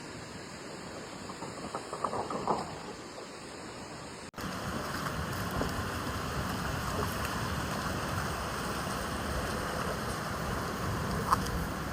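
Steady rushing of floodwater, with a few sharp crackles about two seconds in. A little past four seconds in, the sound cuts to a louder, even rush.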